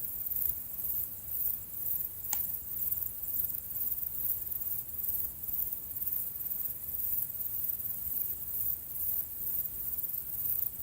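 Insects chirring in a steady, high-pitched chorus that pulses about twice a second, with one brief click about two seconds in.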